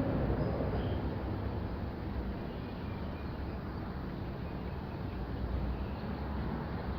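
Steady low background rumble with no distinct events, a little louder at the start.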